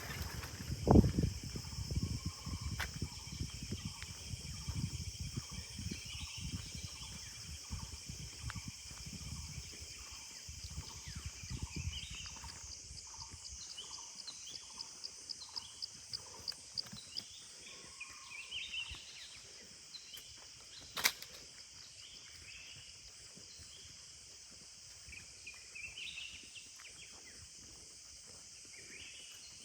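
Forest ambience: a steady high insect drone with short bird chirps over it, and a rapid trill partway through. Irregular low thuds fill the first half and die away, and there is a single sharp click past the middle.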